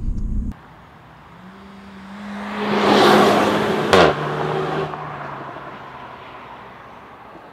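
Renault Mégane RS with its 1.8 turbo engine driving past: engine and tyre noise swell to a peak, and the engine note drops suddenly as it goes by, with a short click at that moment, then fades away.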